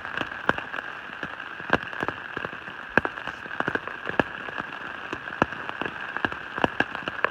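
Heavy rain falling on a tent, with individual drops tapping sharply and irregularly over a steady hiss of rain.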